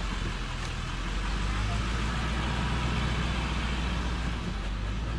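Ford 7.3 Powerstroke V8 turbo-diesel truck engine running steadily while driving, a low even rumble that builds slightly about a second in.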